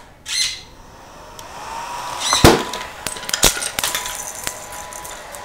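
Hair dryer running with a steady whine that cuts out briefly and then picks up again, over a run of sharp clacks and rattles from the parts of a homemade chain-reaction machine, the two loudest about two and a half and three and a half seconds in.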